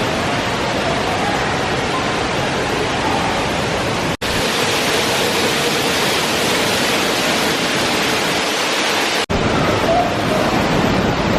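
Water rushing steadily in an indoor water park, with faint distant voices underneath. The sound drops out for an instant twice.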